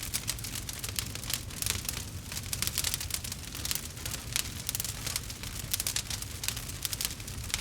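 Campfire crackling: a dense, irregular run of sharp pops and snaps over a steady low rumble.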